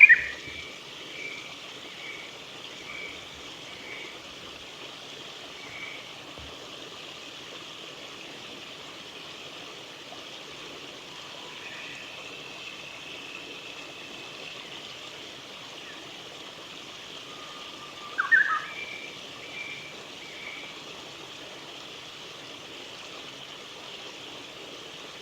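Japanese bush warbler singing its 'hoo-hokekyo' song twice, once right at the start and again about eighteen seconds in. Each time a held whistled note rises into a quick, loud flourish, followed by a few short higher notes.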